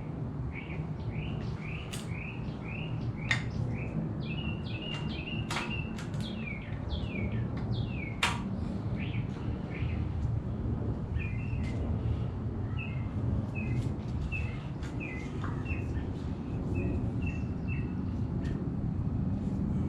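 Songbird chirping in quick series of short repeated notes, with a few sharp clicks and a steady low rumble underneath.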